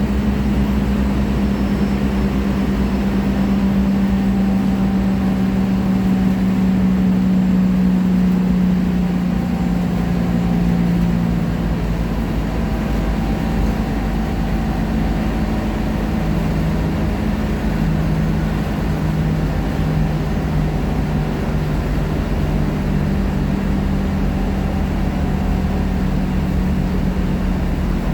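Scania K310IA articulated bus running under way: the engine gives a steady drone over road rumble. About twelve seconds in its pitch drops a little as the revs ease, and it then holds steady at the lower note.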